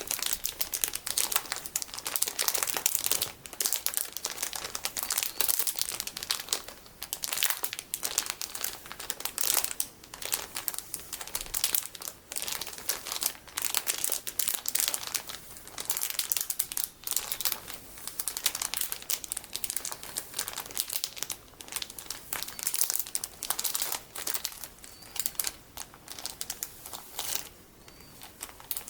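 Golden sticky beads handled inside their plastic packaging: continuous, irregular crinkling and crackling of the plastic under the fingers.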